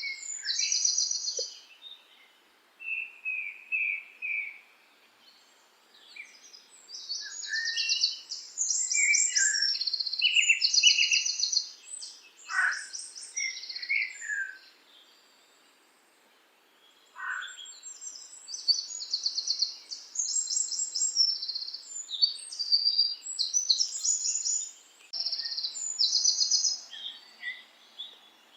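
Birdsong: several birds chirping in repeated high phrases, coming in bursts with short lulls between them.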